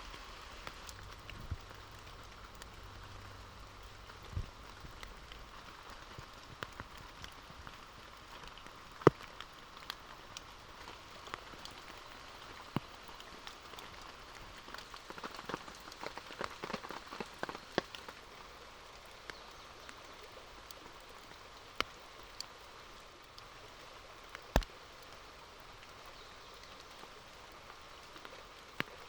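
Scattered raindrops tapping on a surface over a steady background hiss, with a quick flurry of taps about halfway through and a few louder single knocks.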